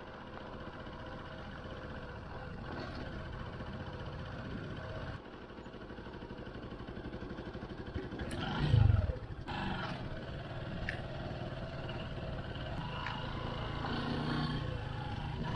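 Motorcycle engine running while riding on the road, heard across a few cut-together clips. About eight and a half seconds in, a louder swell with a falling pitch passes.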